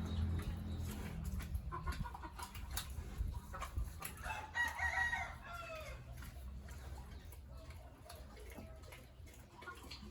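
A rooster crowing once, about four seconds in, a single drawn-out call that falls in pitch at the end. Scattered light clicks and a low hum, strongest in the first second, lie beneath it.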